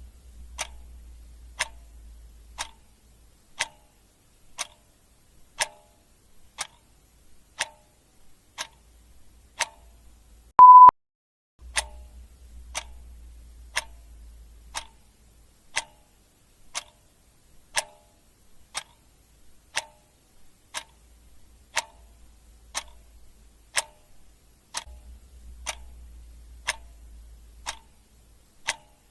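Clock ticking steadily, about one tick a second. About ten seconds in, a single short loud beep sounds over the ticking.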